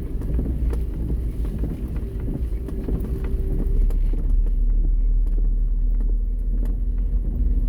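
Car driving, heard from inside the cabin with the windows open: a steady low rumble of engine and tyres, with a faint engine drone that shifts pitch and grows a little louder about halfway through.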